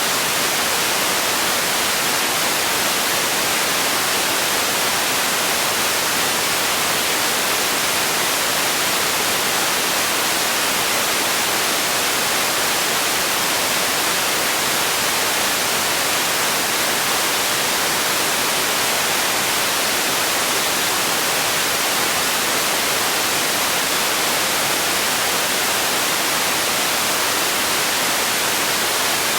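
Steady, unchanging hiss of generated noise, like radio static, strongest in the high pitches.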